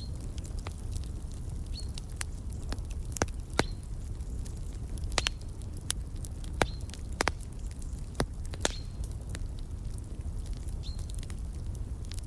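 Wood fire crackling in a fireplace: a steady low rumble of the flames with sharp pops and snaps at irregular intervals, the loudest about three and a half and six and a half seconds in.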